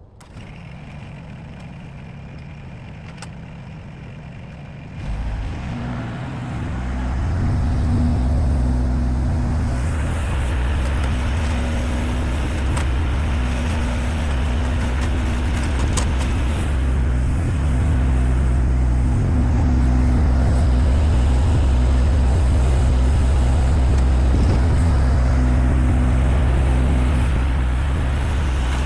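An engine running steadily with a low, even hum. It starts faint, gets louder about five seconds in, and holds steady at full level from about seven seconds on.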